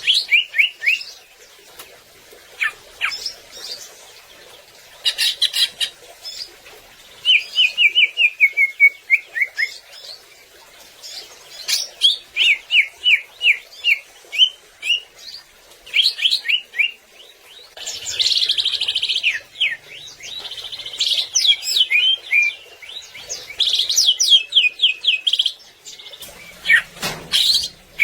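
Cucak ijo (green leafbird) singing a varied, loud song: runs of short, quickly falling chirps and rapid trills, in phrases broken by brief pauses.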